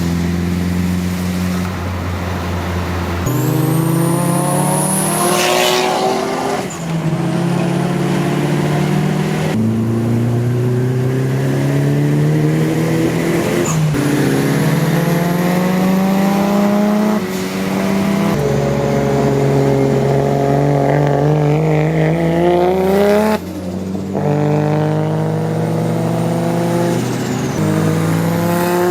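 Performance car engines accelerating hard through the gears. The revs climb again and again, each rise broken off by a sudden drop in pitch at an upshift, about seven times.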